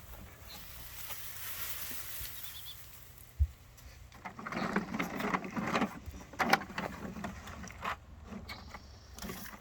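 Garbage truck running, with a hiss for the first few seconds, a single thump about three and a half seconds in, then several seconds of irregular rattling and clattering.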